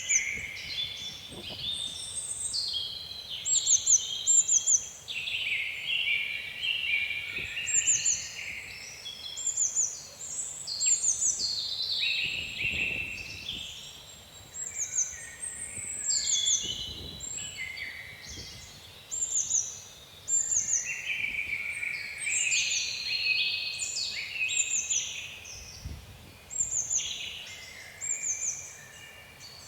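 Several songbirds singing at once: short runs of three or four high, falling notes repeated again and again over lower, busier warbling. A faint low wind rumble sits underneath.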